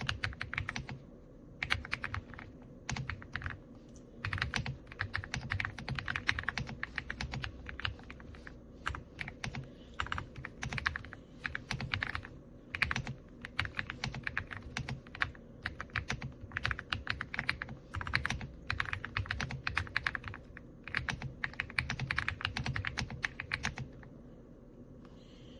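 Typing on an AULA F99 mechanical keyboard with pre-lubed linear switches: quick runs of keystrokes in bursts with short pauses, stopping near the end.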